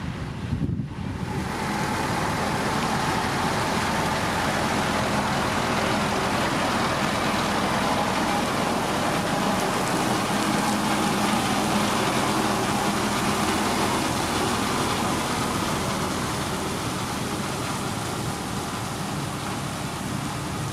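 Diesel engine of heavy road-building machinery, a motor grader or road roller working gravel, running steadily under load over a noisy hiss. It dips briefly about a second in, then holds steady.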